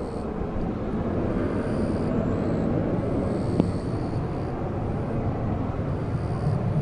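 Jet aircraft engine noise, a steady rush with a faint high whine that comes and goes.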